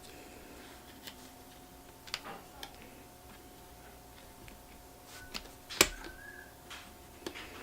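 Scattered small clicks and taps of a laptop RAM module being handled and fitted into a MacBook Pro's memory slot, the loudest a sharp click about six seconds in.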